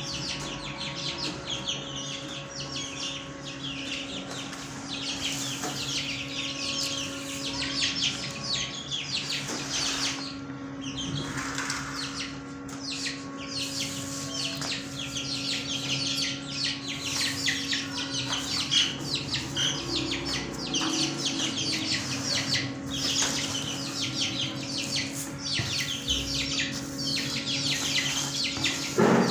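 Many caged fancy birds chirping and chattering continuously, many short calls overlapping, over a steady low hum.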